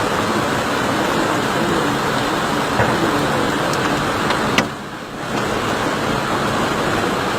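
Flash floodwater rushing over a road, a loud steady roar, dipping briefly about five seconds in.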